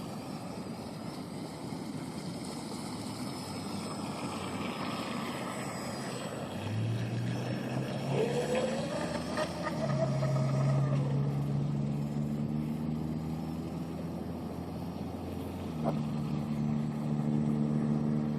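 Electric RC tunnel-hull boat running out on the water, its motor whine rising and falling. A low, steady engine hum comes in about seven seconds in and steps up in pitch twice.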